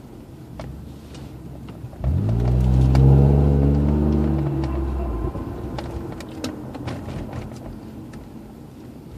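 Acura RL driving with a low road rumble. About two seconds in, a loud drone with several pitches comes in suddenly, rises, holds and fades over about three seconds, with a fainter tone gliding down after it. The uploader puts the whining noise down to a bad rear differential.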